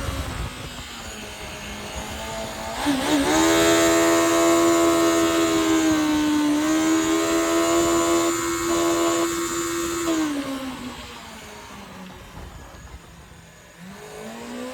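Yamaha 1100 jet ski's two-stroke engine being run up and down: it settles low at first, revs up sharply about three seconds in and holds high for several seconds, drops back to a low idle, then picks up again near the end.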